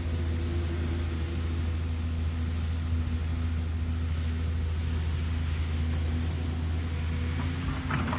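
Excavator's diesel engine running steadily with a low, even hum, with a few clanks near the end.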